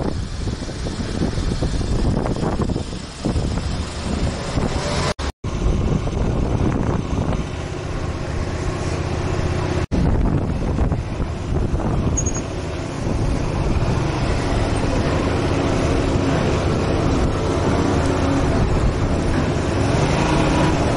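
Motorcycle engine running at road speed with heavy wind noise on the microphone. The sound cuts out briefly twice, about five and about ten seconds in.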